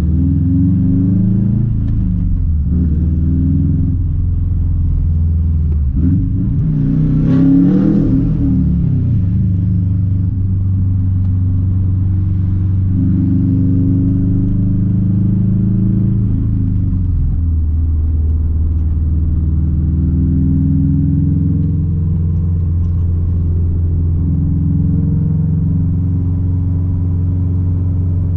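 Straight-piped 2006 Subaru WRX STI's turbocharged flat-four running while driving, its pitch rising and falling with the throttle. A short rev rises and falls about seven seconds in, and the note then settles into steadier running.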